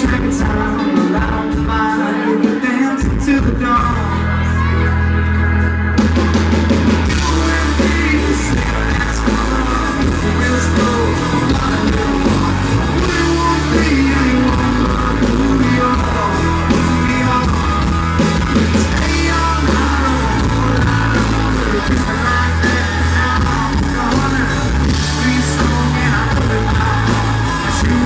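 Live country band playing with a singer, heard in a poor-quality audience recording. The bass comes in about three seconds in, and the full band with bright cymbals joins about six seconds in.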